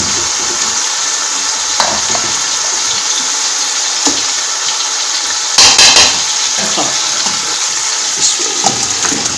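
Masala frying in hot oil in a pot, a steady sizzle, as marinated chicken pieces are put in with a slotted spatula, giving several sharper spatters and spatula knocks against the pot, the loudest about six seconds in. The masala has fried until the oil has separated.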